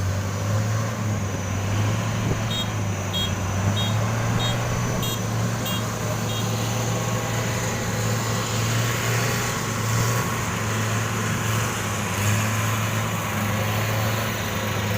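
Combine harvester's engine running steadily with a low hum. A few seconds in comes a run of about seven short, high beeps, a little under two a second, from the machine's warning beeper.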